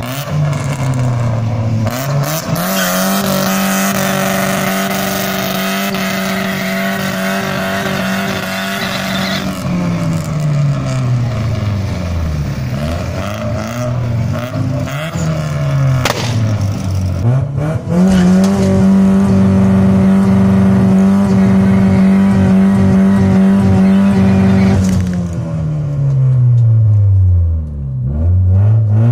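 Chevrolet Astra GSi doing a burnout: the engine is held at steady high revs for several seconds while the spinning front tyres squeal, then the revs fall away. A second long hold at high revs follows, and near the end the revs drop and rise again.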